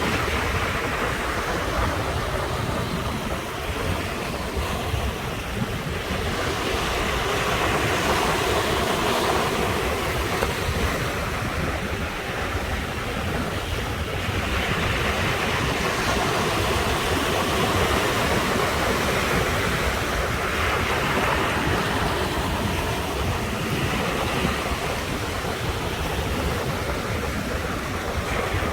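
Ocean surf breaking against the shore, a continuous wash of water that swells and recedes every several seconds as waves come in.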